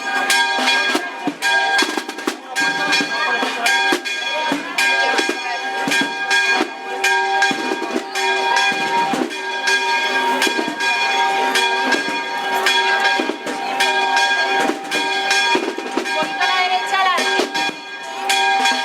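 Church bells ringing continuously over snare drums beating, with a crowd talking.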